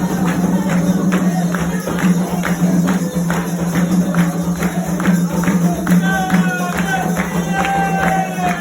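Candomblé ritual music: percussion beating a steady rhythm of a little over two strokes a second, with voices starting to sing about six seconds in.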